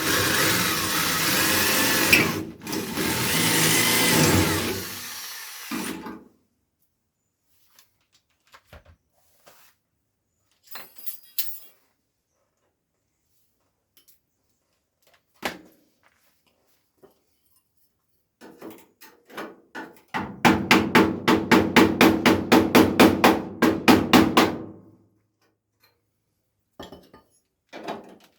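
A power tool runs for about six seconds with a wavering whine and then stops. After some scattered light taps, it goes into a fast, even chatter of strokes, about five a second, for roughly four seconds.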